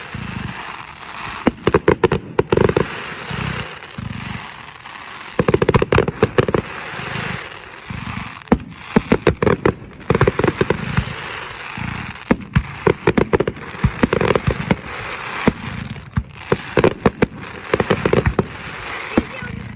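Fireworks going off, rapid sharp cracks and bangs in dense bursts every second or two, over a steady hiss.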